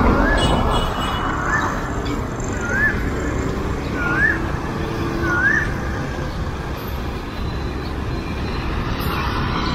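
A bird calling a short rising whistled note about once a second, repeated several times and ending about halfway through, over a steady rumble of street traffic.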